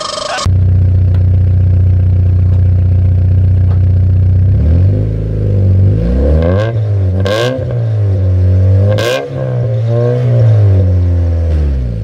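Car engine's exhaust giving a loud, steady low drone, then revved up and down several times from about five seconds in, with two sharp cracks during the revs.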